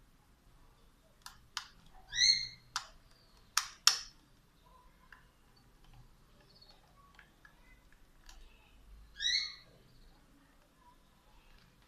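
A few sharp clicks, then two short, slightly rising chirps several seconds apart.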